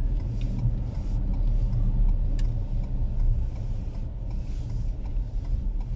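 Car driving on a snow-covered road: a steady low rumble of engine and tyres, with a faint hiss over it.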